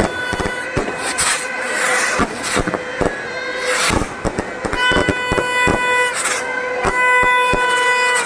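Firecrackers going off in quick irregular bangs and cracks, over a sustained pitched tone with several overtones.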